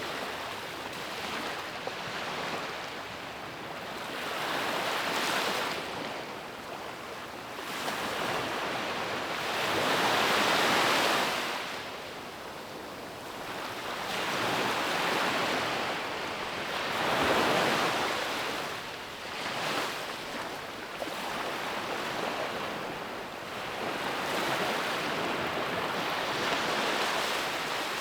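Ocean waves breaking on a beach, the surf swelling and fading every few seconds, with the strongest breakers near the middle.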